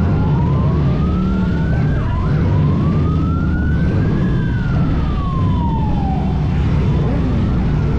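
A siren wailing once in a slow rise and fall: it climbs for about four seconds, with a brief dip partway up, then falls away, over a steady low rumble.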